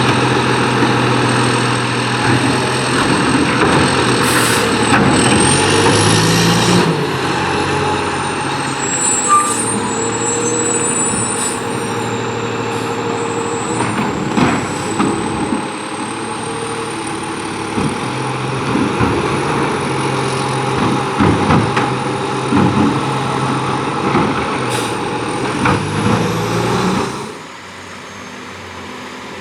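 McNeilus front-loading garbage truck running, its engine steady, with a high thin whine that rises and falls and several brief sharp noises. The truck noise drops off sharply near the end.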